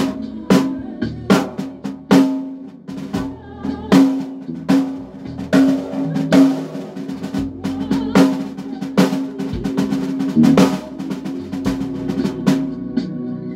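Live band playing: a drum kit with frequent snare and bass drum hits over a steady held low note from a pitched instrument.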